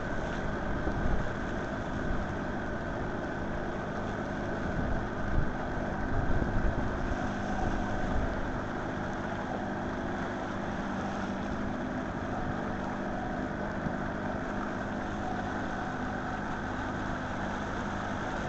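A steady, engine-like hum over even background noise, with a few louder low knocks in the first several seconds.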